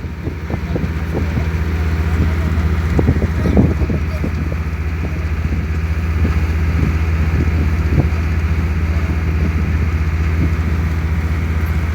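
Passenger ferry's diesel engine running at a steady low drone, heard on board the boat.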